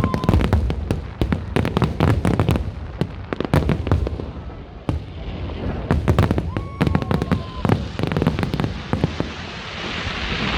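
Fireworks display: a rapid, dense run of sharp bangs and cracks, with a steady whistle for about a second midway and a hiss building near the end.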